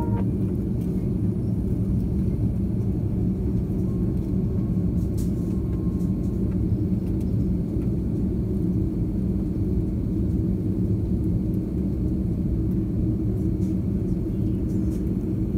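Steady low rumble of airliner cabin noise before takeoff, with a faint hum running through it.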